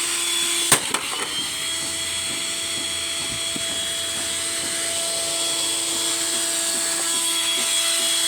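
Eureka Boss upright vacuum's motor running with a steady high whine. A sharp bang comes just under a second in, with a smaller knock right after; the whine carries on, slightly changed in tone, as the abused machine keeps going.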